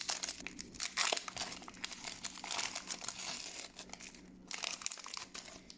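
Foil wrapper of a Pokémon TCG booster pack crinkling and tearing as it is opened by hand, in irregular crackles that thin out after about four seconds, with a short flurry near the end.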